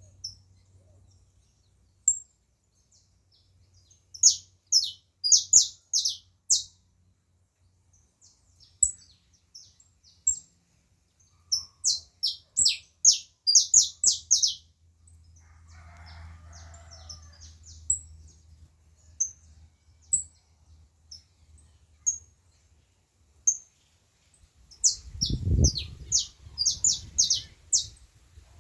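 Songbirds singing: three bursts of rapid, falling high-pitched chirps, with single thin high notes in between. A low rumble joins the last burst.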